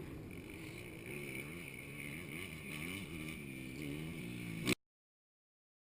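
Dirt bike engine running, its pitch rising and falling as the throttle is worked. The sound cuts off abruptly about three quarters of the way through.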